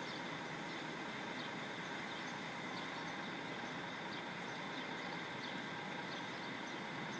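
Diesel coach engine idling steadily, left running rather than switched off. Faint short high chirps recur throughout.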